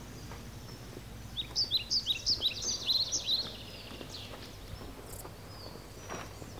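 A small songbird singing a quick run of high, down-sweeping chirps about a second and a half in, lasting about two seconds, over steady low background noise in an open field.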